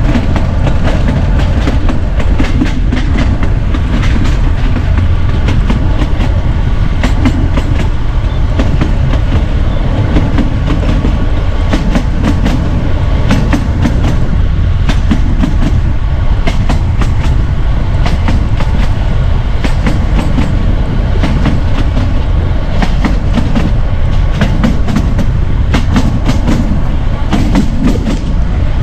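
Narrow gauge train running on the rails, heard on board: a steady loud rumble with wheels clicking and clattering over the rail joints throughout.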